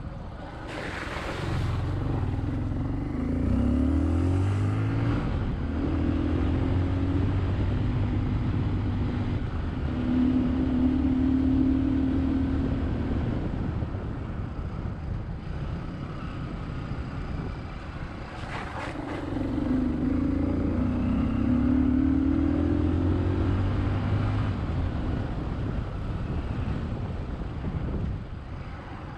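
Dirt bike engine running on the ride, twice picking up speed with its pitch climbing through the gears, with steady cruising between and easing off in between.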